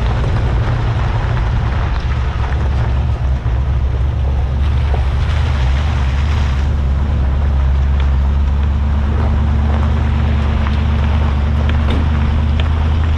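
Land Rover Series 2A driving at a steady pace: a steady low engine drone with road and wind noise over it.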